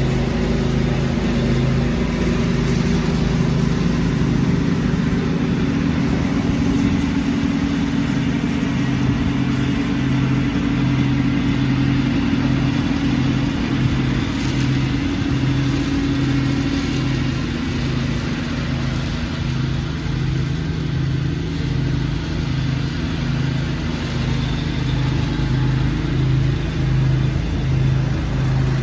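Small petrol engine of leaf-vacuuming lawn equipment running steadily under load, with a low engine hum that pulses in an even rhythm over a rushing noise.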